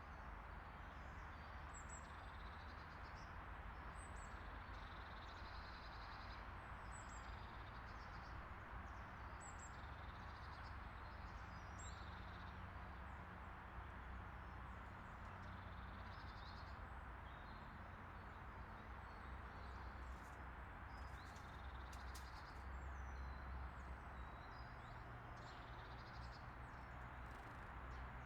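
Small birds chirping: short high calls that recur every couple of seconds, faint, over a steady background hiss and low rumble.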